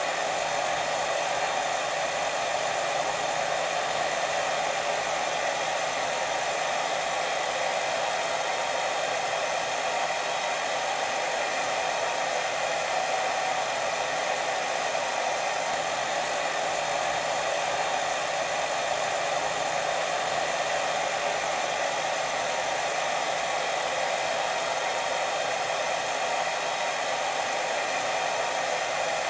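Steady white-noise hiss for sleep, even and unbroken, strongest in the middle and upper range.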